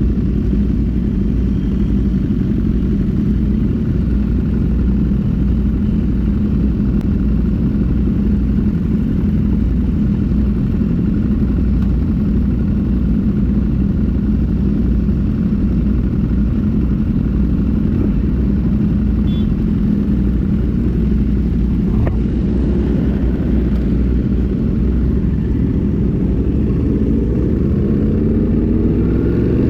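Motorcycle engine running at steady cruising speed under heavy wind rumble on the microphone. Near the end the engine pitch climbs as the bike accelerates.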